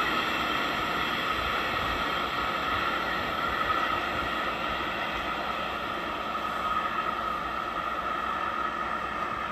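Steady running noise of a train, an even hiss and hum with a few held tones and no wheel clatter.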